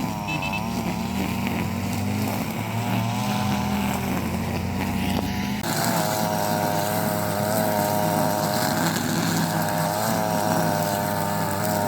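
Car engine and road noise heard inside the cabin while driving: a steady drone with a wavering whine above it. The sound changes abruptly about halfway through.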